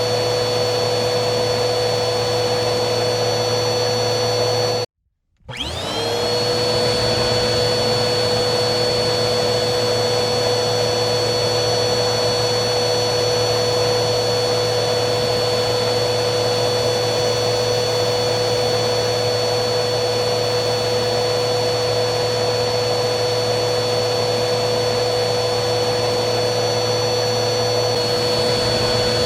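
Vacuum cleaner motor running with a steady high whine. About five seconds in it cuts out for half a second, then spins back up with a rising whine and runs on steadily.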